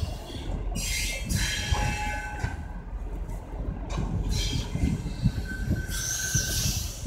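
Passenger train coaches rolling past slowly as the train arrives, with a steady low rumble and irregular wheel knocks on the rails. High metallic squeals come from the wheels about a second in and again near the end.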